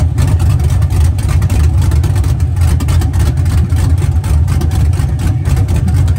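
A loud, low-pitched vehicle engine idling steadily, with a fast, choppy exhaust note.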